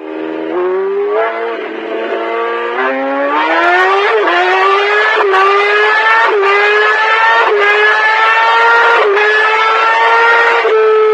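A high-revving engine accelerating hard up through the gears. Its pitch climbs, then drops briefly at each of several quick shifts about a second apart, and levels off near the end.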